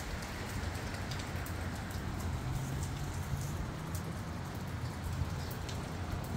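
Steady rain falling, with scattered sharp drop ticks over an even hiss and a low, uneven wind rumble underneath.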